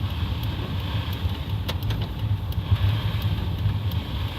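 Steady low rumble of a truck's engine and tyres heard from inside the cab while driving on a snow-covered road, with a few faint clicks.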